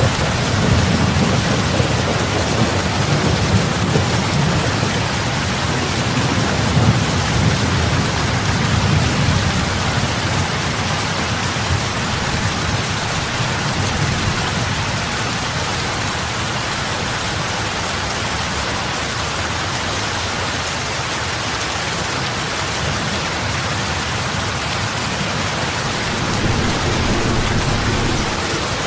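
Heavy rain falling on lake water, a steady even hiss of drops hitting the surface. A low rumble swells under it through about the first third and again near the end.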